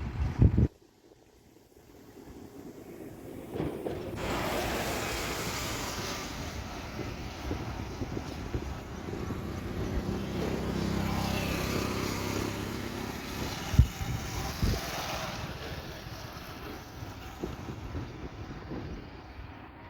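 Steady rushing of a rain-swollen river's floodwater, building up over the first few seconds and then holding even. Two short thumps come about two-thirds of the way through.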